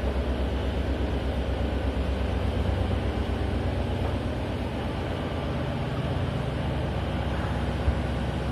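Ship's diesel engine running steadily, a constant low hum, with one brief tap near the end.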